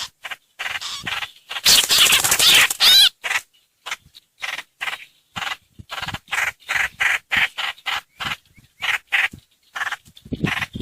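Recorded lure calls of the songbird known in Vietnamese as trao trảo or hoành hoạch: a loud harsh chattering burst about two seconds in, then a string of short sharp call notes, about three a second.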